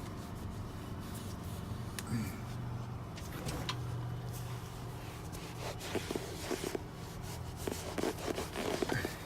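Hand work on a truck cab's plastic interior trim while a restorer is applied: scattered light clicks and knocks, then irregular rubbing and handling sounds in the second half, over a steady low hum.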